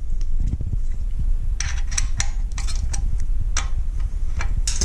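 Irregular metallic clicks and taps of a hex key working the bolts of a motorcycle exhaust cap, starting a little over a second in, over a steady low rumble.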